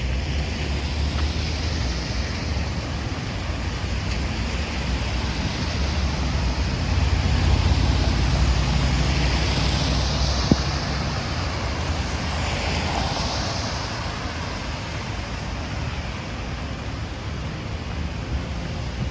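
Stormy city street: a steady low rumble of wind on the microphone under the hiss of rain, with vehicles swishing past on the wet road, loudest around the middle. A single sharp click about ten seconds in.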